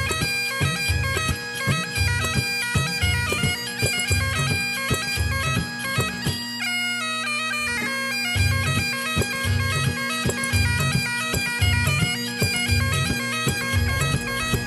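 Bagpipe music: steady drones under a moving melody, over a regular low beat that drops out for about two seconds midway.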